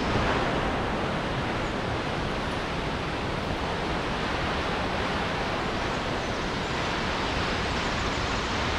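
Baatara Gorge waterfall, its water plunging into the limestone sinkhole, heard from close beneath the falls as a steady, even rush of water.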